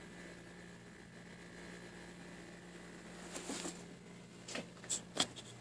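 The 40-watt compressor of a 1984 Excellence mini fridge running with a faint, steady hum, building pressure after kicking on. In the second half there are a few short clicks and rustles of handling.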